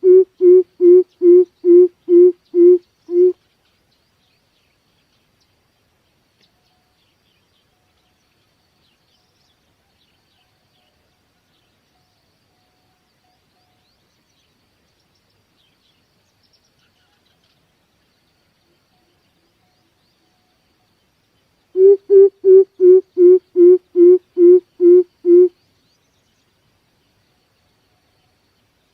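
Coucal calling: a series of deep, evenly spaced hoots, a little over two a second, that ends a few seconds in. After a long near-silent gap, a second series of about eleven hoots follows in the last third.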